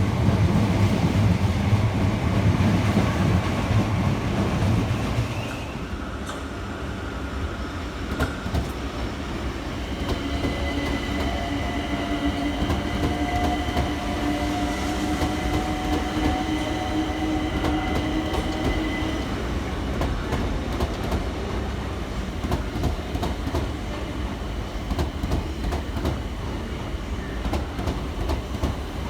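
Train running on the rails: a loud low hum for the first five seconds or so, then a steadier rumble with wheels clicking over rail joints. A steady whine comes in about ten seconds in and fades out a little before halfway.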